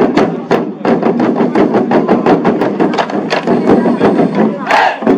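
Drum corps beating war drums in quick, hard strokes, several a second, with voices shouting along and a louder shout near the end.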